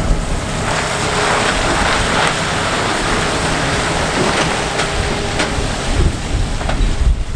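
Heavy truck driving past, engine and tyre noise swelling and fading, with wind buffeting the microphone, the low gusts growing toward the end.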